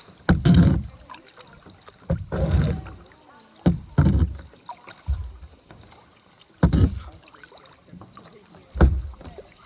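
Kayak paddle strokes in the water, six of them about every one and a half to two seconds, each a sudden splash with a low thump that dies away quickly.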